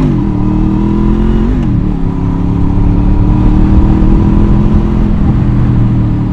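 Honda VFR800's V4 engine under way on the road. The revs dip and recover at the start, then hold fairly steady with a slow rise under light throttle.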